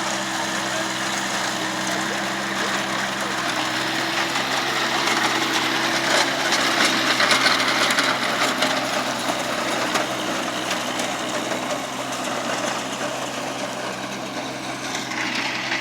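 VST Shakti tractor engine running steadily. It grows louder for a few seconds in the middle, then eases back.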